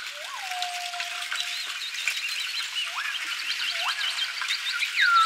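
Birds calling over a faint hiss. A clear whistle rises and then holds for over a second near the start, two short upswept whistles follow, and a falling whistle comes near the end. Quick repeated high chirps run behind them.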